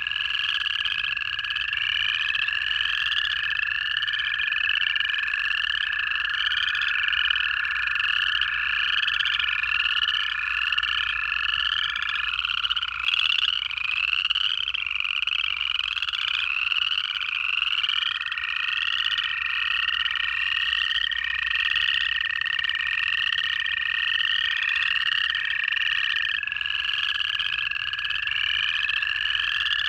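A dense chorus of upland chorus frogs giving rapid ascending trills, many overlapping several times a second. Under it, American toads give long, steady, unbroken trills lasting many seconds each, one starting as another ends.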